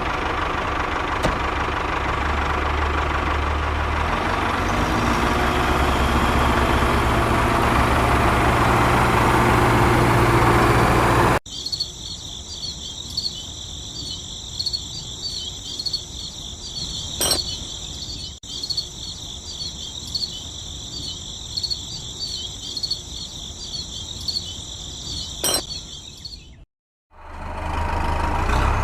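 A small engine running steadily, growing slightly louder, until an abrupt cut about eleven seconds in. Then crickets chirp in a steady, pulsing high chorus, broken by two sharp clicks. After a moment of silence near the end, the engine noise returns.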